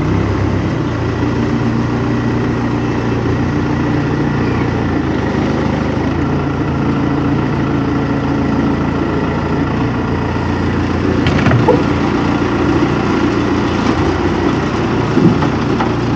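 A vehicle engine running steadily at low speed, with two short knocks about twelve and fifteen seconds in.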